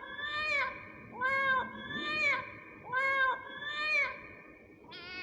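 Kitten meowing, five calls about a second apart, each rising then falling in pitch. Right at the end a different, flatter and buzzier cry begins.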